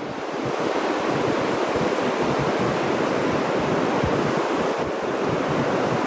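Ocean surf washing onto a beach, a steady rush of breaking waves that swells over the first second and then holds.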